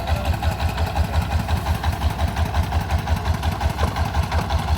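The engine of a rice threshing machine running steadily at a low, even speed, with a regular low thudding of about five beats a second.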